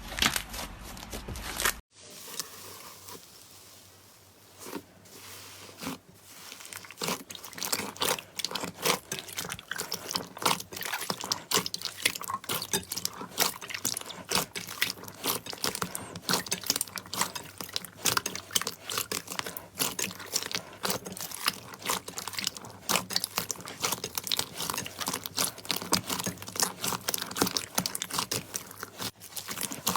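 Slime being squeezed and pressed by hand, crackling and popping in a dense run of small sharp clicks. There is a cut about two seconds in; a few seconds of quieter handling follow before the crackling builds.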